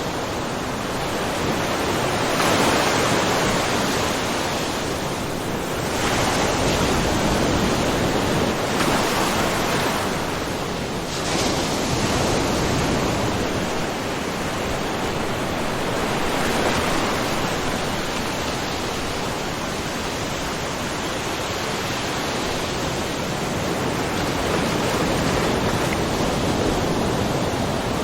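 Small ocean waves lightly splashing against the shore of a rocky mussel cove, a steady wash of water that swells and eases every few seconds.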